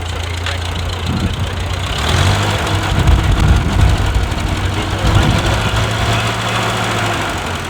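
Massey Ferguson tractor engine running, growing louder and fuller about two seconds in as it is worked harder, then easing slightly near the end.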